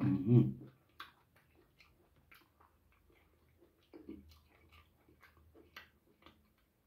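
A person biting, tearing and chewing the meat of a boiled goat head by hand: a short low grunt as the bite is taken at the start, then many small wet mouth clicks and smacks while chewing.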